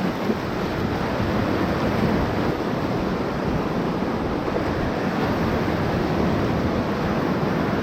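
Whitewater rapids rushing steadily around a paddle raft.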